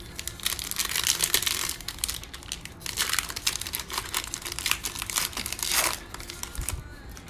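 Wrapper of a Panini Mosaic football trading card pack crinkling as it is torn open and handled, in a run of crackly bursts that stops about six seconds in.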